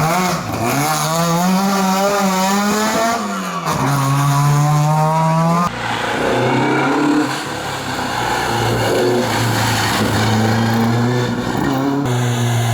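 Rally car engine revving hard, its pitch climbing, dropping at a gear change about three and a half seconds in, then climbing again. About six seconds in the sound switches abruptly to a lower, steadier engine note.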